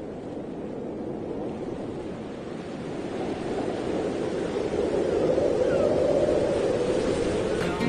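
A rushing noise that grows gradually louder.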